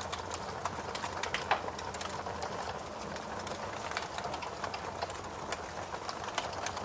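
Fire crackling: irregular snaps and pops, several a second, over a steady low hiss and rumble.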